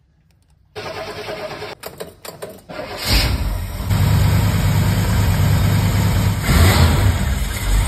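Chevrolet 350 small-block V8, fitted with a new Edelbrock 1404 four-barrel carburetor, cranked on the starter for about two seconds. It catches about three seconds in and settles into a steady idle, briefly louder around six and a half seconds.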